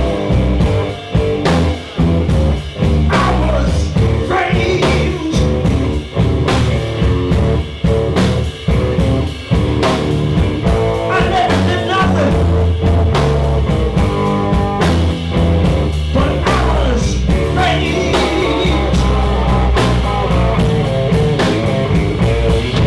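Live electric blues band playing an instrumental passage between verses, with electric guitar lines over bass and drums.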